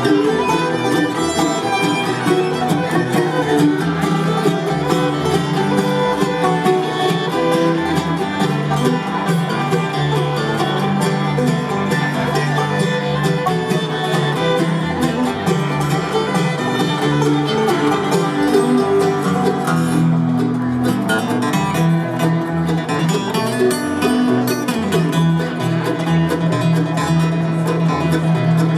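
Bluegrass band playing live, with fiddle, banjo and guitar.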